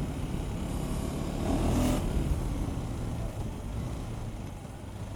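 KTM 390 Adventure's single-cylinder engine running under way, rising briefly about two seconds in, then easing off and growing quieter toward the end.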